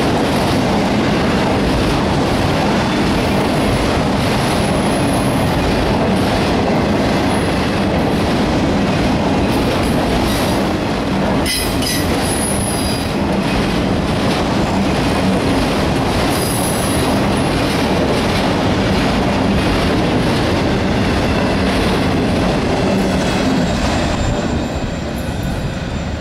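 Autorack railcars of a CSX freight train rolling past on a curve, with steady wheel rumble and clickety-clack on the rails. Brief high-pitched wheel squeals come now and then as flanges grind through the curve. The sound grows quieter near the end.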